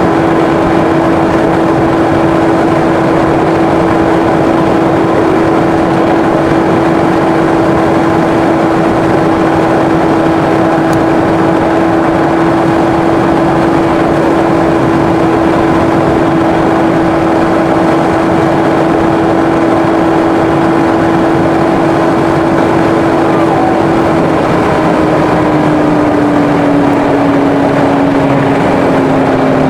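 A car driving at speed: steady engine and road drone with one humming tone that slides gradually lower a few seconds before the end.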